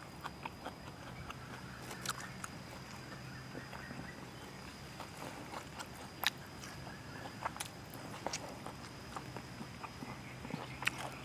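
A person chewing a mouthful of raw fermented pork sausage (naem) close to the microphone: scattered small wet mouth clicks and smacks over a faint steady hum.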